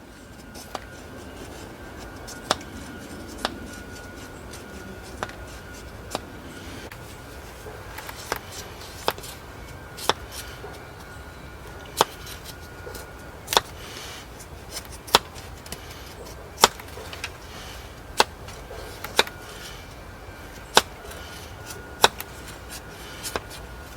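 Chopping: sharp single strikes of a blade on a block, about one every second and a half, with a steady low background.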